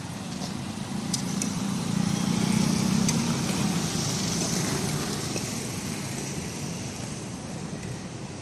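A motor vehicle's engine running past on the road: it grows louder about two to three seconds in, then fades away.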